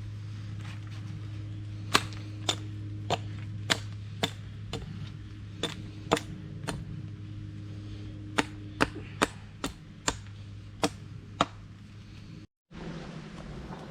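A tool striking wood in a string of about fifteen sharp knocks, roughly two a second, in two runs with a pause between them, as branches are worked for a rustic bed frame.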